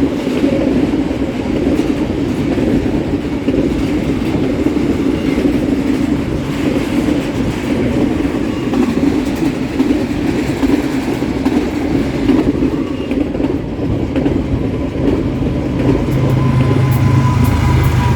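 Long freight train rolling past at close range: a steady rumble of steel wheels on the rails with the clickety-clack of the cars going over the joints. A low steady hum joins in during the last few seconds.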